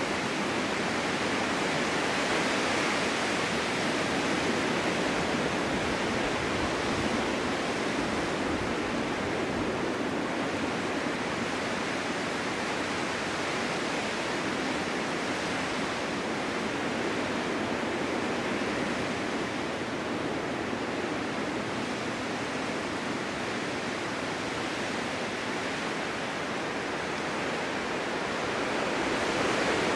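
Snowstorm wind blowing steadily, a continuous rushing hiss with no gusts or breaks. It eases slightly in the second half and swells again near the end.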